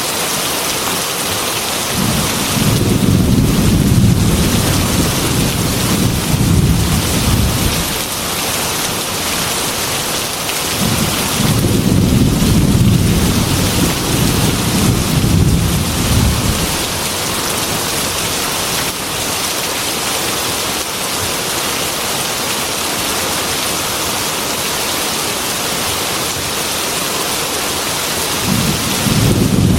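Heavy rain falling steadily, with two long rolls of thunder, one a few seconds in and one near the middle, and a third beginning near the end.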